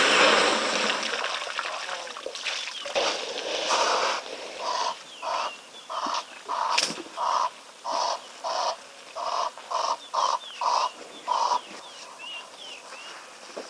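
Water splashing as an elephant calf flicks its trunk in the shallows, then a bird honking in a long, evenly spaced series of about fifteen calls, roughly two a second, with small birds chirping faintly.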